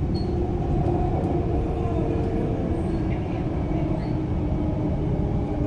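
Suburban electric train running along the track: a steady low rumble with a faint, even whine from its motors.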